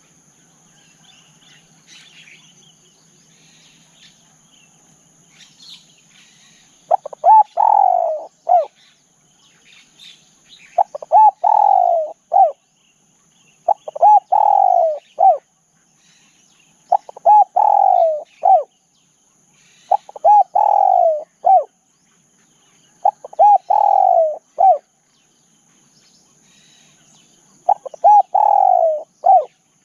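Spotted dove cooing in repeated multi-note phrases, seven of them starting about seven seconds in, each roughly a second and a half long and about three seconds apart. Faint small bird chirps and a steady high insect drone run underneath.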